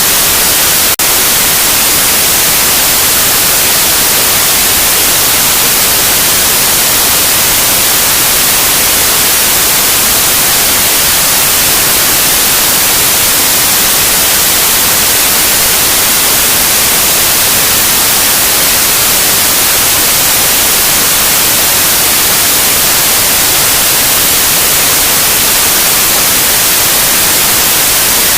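Loud, steady white noise: an even hiss, strongest in the treble, with a single faint click about a second in.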